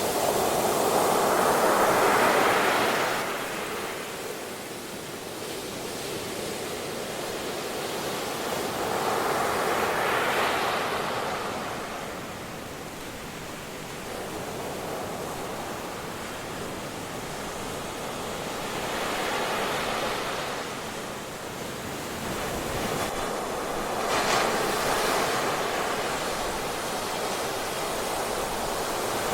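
Ocean waves breaking on a beach: four swells of surf rise and fall, with a steady wash of water between them.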